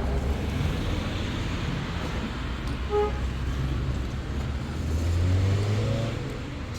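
Road traffic: vehicle engines running with a steady low rumble, a short beep about three seconds in, and an engine rising in pitch near the end.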